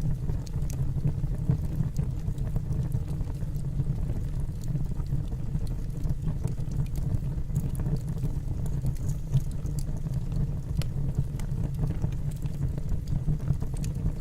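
Wood logs burning in a fireplace: a steady low rumble of the fire with scattered small crackles and pops.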